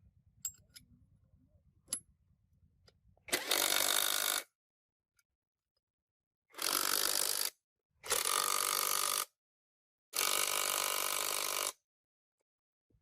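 Four bursts of loud hissing, each about a second long, with sharp starts and stops, after a few faint clicks and knocks.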